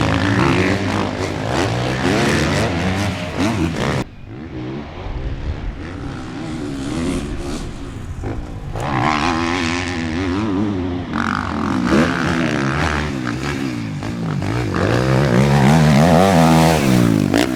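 Suzuki RM-Z motocross bike's four-stroke single-cylinder engine being ridden hard, the pitch rising and falling over and over with the throttle and gear changes. The sound drops away abruptly about four seconds in, then builds again and is loudest near the end.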